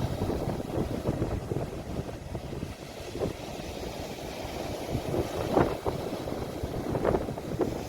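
Sea waves washing on the shore with wind rumbling on a phone's microphone: a continuous low rushing noise, with a few brief louder splashes about five and a half and seven seconds in.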